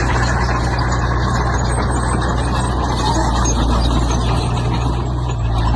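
Heavy diesel road-construction machinery running steadily: a deep engine hum under a rough, grating noise.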